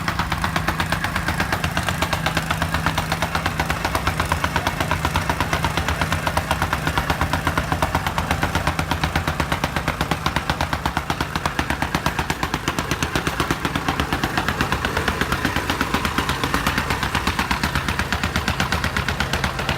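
Tamping rammer (jumping jack compactor) running, its small engine driving a fast, steady series of pounding blows that holds an even rhythm throughout.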